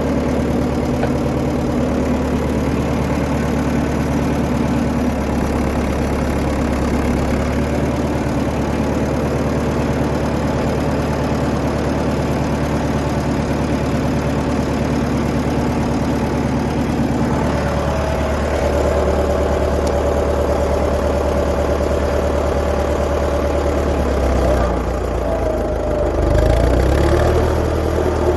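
1959 Fordson Power Major tractor's four-cylinder engine running steadily as the tractor drives off under load, its note shifting about two-thirds of the way in and again near the end.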